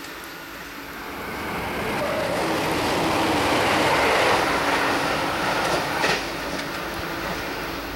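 Series E353 limited express electric train passing through at speed. The noise of the train on the rails swells to a peak about four seconds in, then fades as it runs away down the line, with a sharp click about six seconds in.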